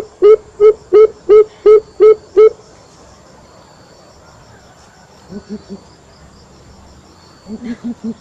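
Coucal calling: a fast series of loud, deep hoots, about three a second, ending about two and a half seconds in. A few softer, lower hoots follow around five seconds in, and another short series starts near the end. Crickets chirr faintly throughout. This is the coucal's hooting call as used to lure wild birds.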